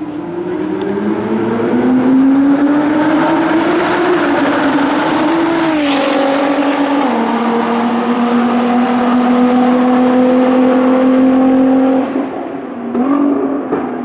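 Nissan GT-R R35's straight-piped twin-turbo V6 accelerating hard at high revs as the car passes close by. The engine note climbs and is loudest about six seconds in, where the pitch drops. It then holds steady until the driver lifts off near the end, followed by a couple of short revs.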